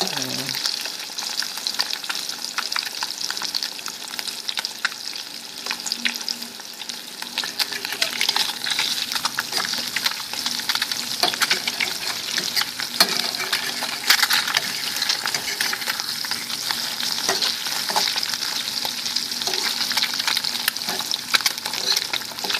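Eggs frying in olive oil in a pan: a steady sizzle with scattered crackles and pops.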